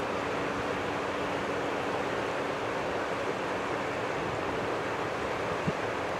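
Steady rushing noise with a faint steady hum under it, from a twin-engine Boeing airliner's jet engines heard at a distance, mixed with wind on the microphone. A low wind thump comes near the end.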